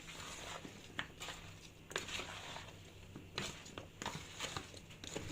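Chopped potatoes, peppers and tomatoes being gently folded together in a bowl: soft, scattered clicks and rustles of the pieces moving.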